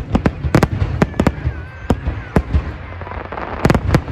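Fireworks display: a rapid, irregular string of sharp bangs and cracks over a low rolling rumble, with a dense burst of bangs near the end.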